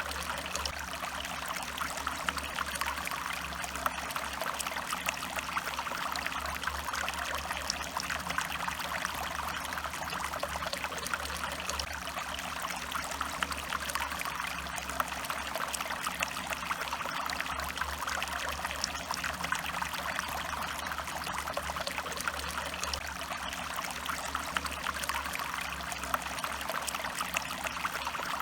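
A stream running steadily, trickling and splashing, with many small droplet ticks over a constant low rumble.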